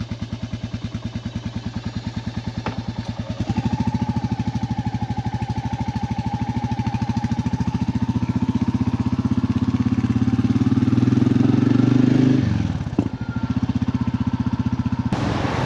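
Royal Enfield motorcycle engine pulling away, its revs climbing steadily for several seconds. The revs drop sharply about twelve seconds in, then rise again.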